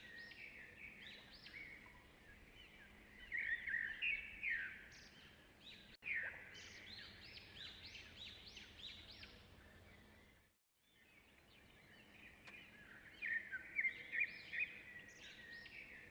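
Small birds chirping in quick runs of short, rising-and-falling calls, busiest in a few bursts. The sound cuts out completely for about half a second partway through.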